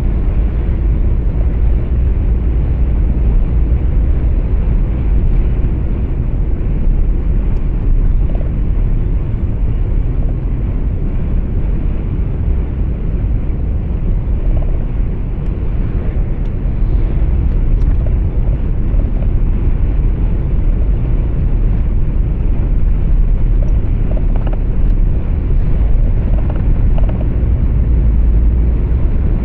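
Truck running at road speed, heard inside the cab: a steady low engine and tyre rumble with road noise, without breaks.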